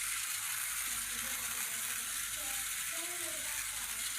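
Steady hiss with faint, indistinct voices in the background.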